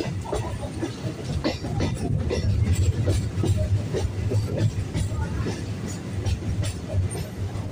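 Local electric train running along the track, heard from the side of a moving coach: a steady low rumble with many irregular clicks and knocks of the wheels over the rails.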